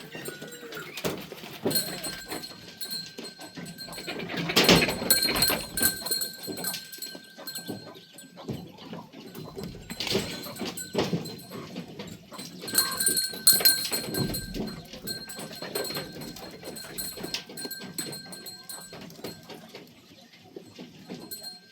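Animal calls mixed with irregular knocks and rustling, loudest in two stretches: about five seconds in and again near the middle.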